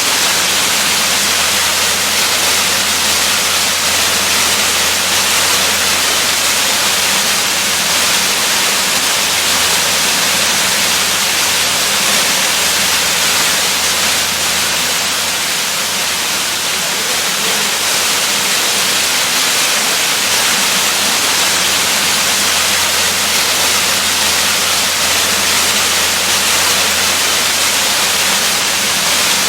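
Waterfall rushing: a steady, unbroken hiss of falling water, strongest in the upper range.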